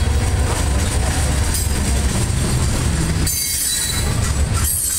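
Herzog ballast hopper cars of a freight train rolling past close by, a steady low rumble of wheels on rail. About three seconds in, and again near the end, a high-pitched wheel squeal rises over the rumble.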